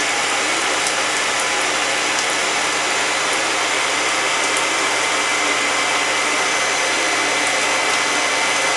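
Shower spray running steadily into a bathtub, set below full force, with a few faint ticks of falling drops.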